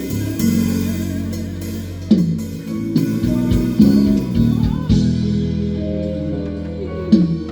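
A band playing a song in rehearsal: guitar and bass guitar over a drum kit.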